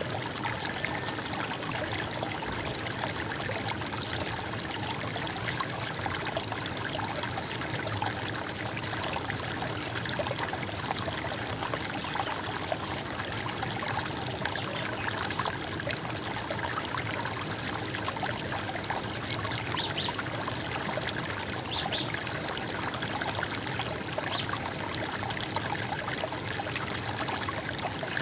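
Running water, a steady gurgling, trickling flow that never pauses.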